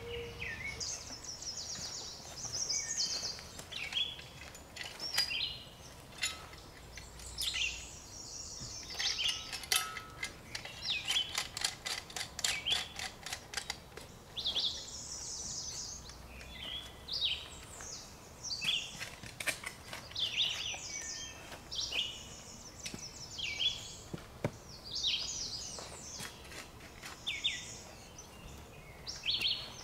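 Songbirds chirping and singing, many short calls overlapping throughout, with a fast run of sharp clicks from about ten to fourteen seconds in.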